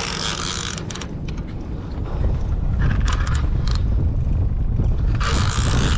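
Wind buffeting the microphone: a heavy low rumble that grows louder about two seconds in, with two hissing bursts of about a second each, at the start and near the end.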